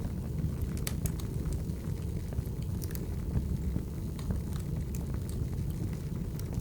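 Wood fire burning: a steady low rumble of the flames with irregular sharp pops and crackles from the burning logs.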